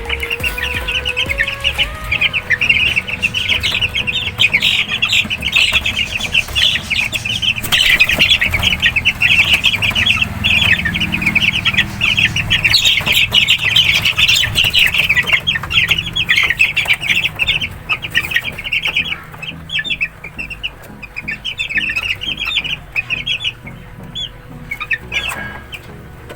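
A brood of Sweater Boston gamefowl chicks peeping together, a dense chorus of rapid high cheeps that thins out over the last several seconds.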